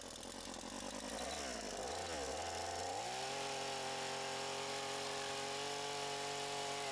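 Two-stroke chainsaw engine revved up about three seconds in and held at a high steady speed, dropping back near the end.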